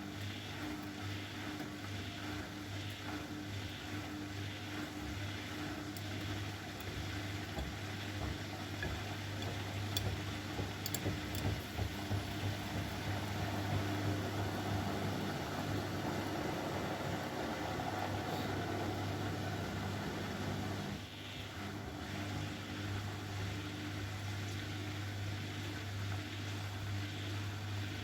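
Bosch Maxx WFL 248Y front-loading washing machine running, a steady motor hum over drum and water noise, with a brief dip about three-quarters of the way through.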